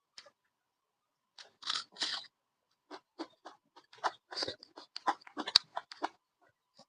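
Close chewing and crunching of pork, an irregular run of short bites and chews that starts about a second and a half in.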